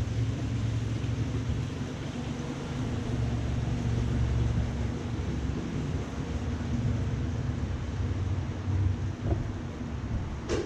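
Wiegand alpine coaster sled running along its steel rail: a steady low rumble under an even hiss, with a sharp click near the end.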